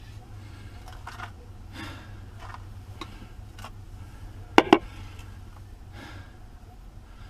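Hands and tools at work: faint scrapes and light taps, with two sharp clicks in quick succession about four and a half seconds in, over a steady low hum.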